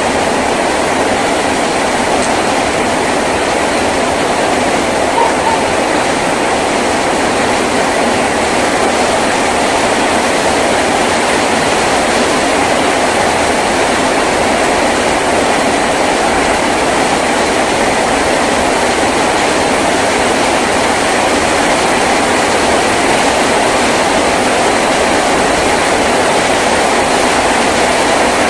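Heavy rain falling steadily on a tin roof, a dense, even patter with no breaks.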